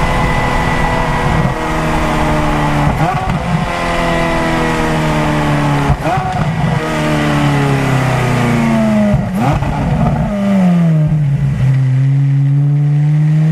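Ferrari F430's 4.3-litre V8 through Fabspeed headers, stock cats and the Ferrari sports exhaust, driven hard. The engine note slides down in pitch, broken three times, about three seconds apart, by short sharp gear-change blips, then steadies and slowly rises near the end.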